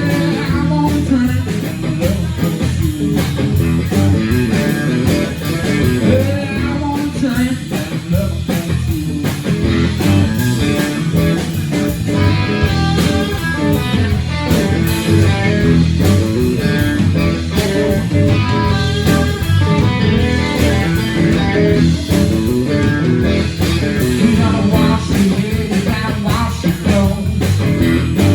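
Live blues-rock band playing, with electric guitar to the fore.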